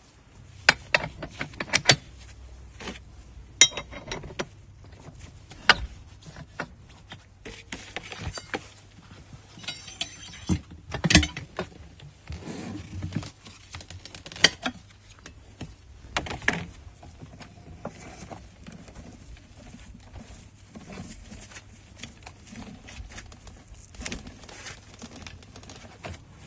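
Irregular metal clicks, clanks and knocks from working a manual tyre changer. Twice a short ringing metallic clink is heard, and the sharpest knocks come about eleven and fourteen seconds in.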